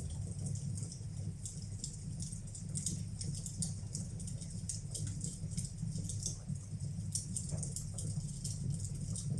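Wood fire burning in a fireplace: many small, irregular crackles and pops over a steady low rumble.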